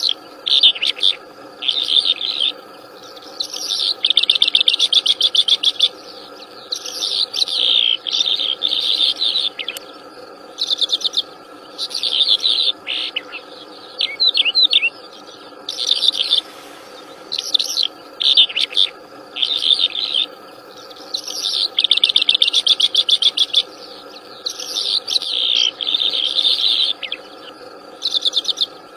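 Wild songbird singing vigorously in fast trilled and chattering phrases, each a second or two long, repeated with short pauses. A steady low hum runs underneath.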